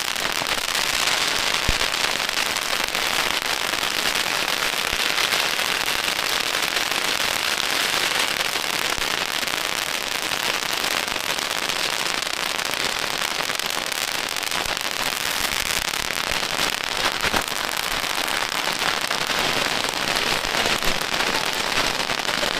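Strings of firecrackers going off in a continuous, rapid crackle of many small bangs, with a few louder bangs standing out.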